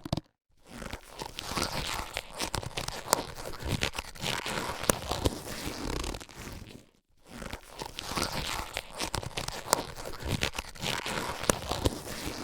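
Latex surgical gloves being handled and stretched: a continuous rubbery rustle and crinkle with many small snaps and clicks. It stops briefly just after the start and again about halfway through, then resumes.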